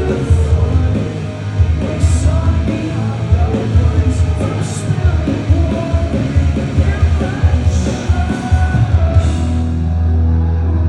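Live rock band playing loud, with heavy bass, distorted guitars, drums with repeated cymbal crashes, and singing. Near the end the band stops on a sustained low ringing chord.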